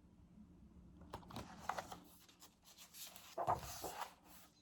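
Faint rustling of paper, as a page of a picture book is handled and turned, in short scuffs about a second in and again, louder, around three and a half seconds.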